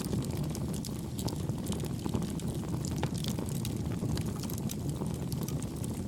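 Wood campfire burning: a steady low rumble of flames with frequent small, soft crackles and pops scattered throughout.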